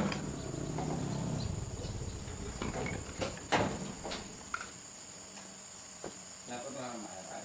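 Scattered clicks and knocks of objects being handled, one louder knock about three and a half seconds in, over a steady high-pitched whine.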